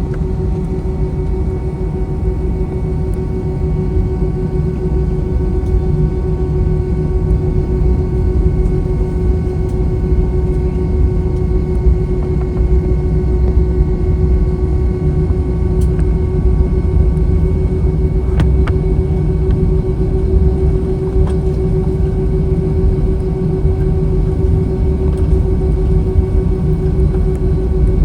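Airbus A321 jet engines heard from inside the cabin at the start of takeoff: a loud low rumble with a steady hum over it, building a little over the first several seconds.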